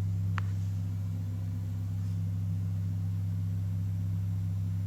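A loudspeaker gives a steady low hum as it vibrates a mold of wet concrete mix set on top of it, shaking air bubbles out of the concrete. There is a single short tick about half a second in.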